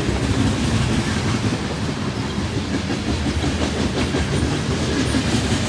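Freight train cars rolling past, a steady rumble with wheels clattering on the rails.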